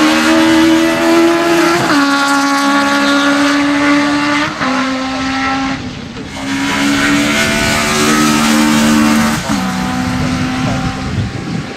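Race car engine at full throttle accelerating uphill. Its note climbs in each gear and drops sharply at each of several upshifts, then eases off near the end.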